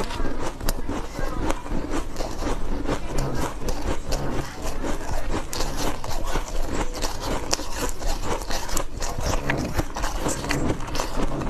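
Close-miked chewing of refrozen powdery ice: a dense, irregular run of soft crunches and crackles as the ice is bitten and crushed between the teeth.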